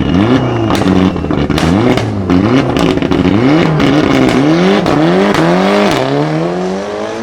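Modified car engine revved in repeated quick blips, its pitch climbing and dropping about once a second, with sharp exhaust pops and bangs between the revs.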